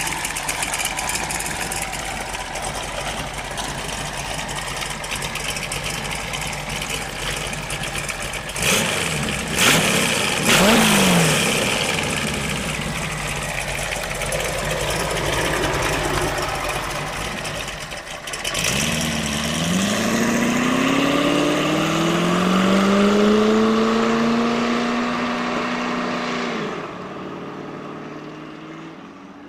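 Supercharged V8 of a Ford T-Bucket hot rod running at idle, blipped twice about nine and ten seconds in. Later it pulls away, the engine note climbing and then holding steady before it fades as the car drives off.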